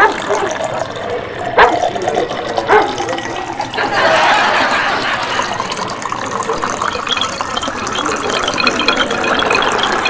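Many caged small birds chattering and chirping together in a dense, rapid mix. There are a few loud sharp calls in the first three seconds, and the chatter thickens from about four seconds in.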